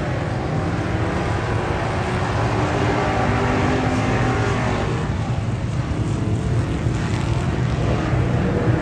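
A motor vehicle's engine running steadily, with a low drone and road or wind noise, getting slightly louder near the end.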